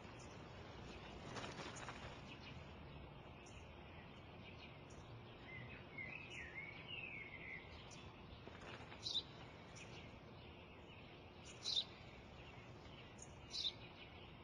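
Faint outdoor ambience with small birds chirping: a short warbling phrase around six seconds in, then a few single sharp, falling chirps spaced a couple of seconds apart.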